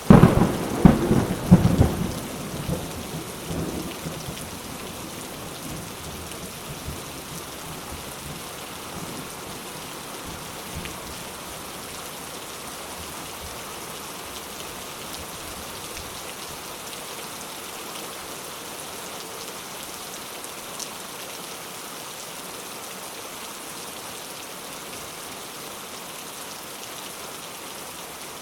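Steady rain falling, with a sudden thunderclap at the start that rumbles away over the first few seconds.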